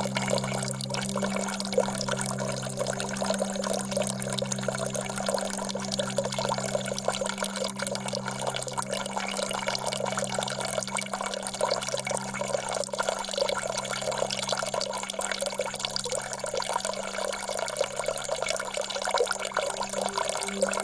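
Steady flowing, splashing water over a low, held musical drone that renews every second or two.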